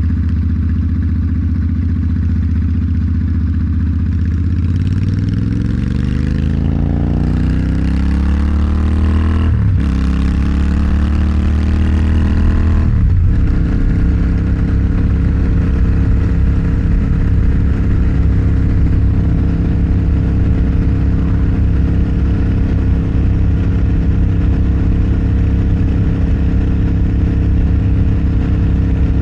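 Motorcycle engine idling, then pulling away: the pitch climbs, drops at an upshift about ten seconds in, climbs again and drops at a second upshift about thirteen seconds in, then holds steady at cruising speed.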